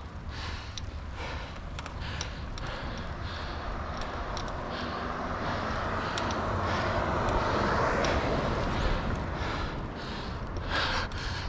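Wind rumble on the microphone under a rushing noise that builds for a few seconds in the middle and then fades.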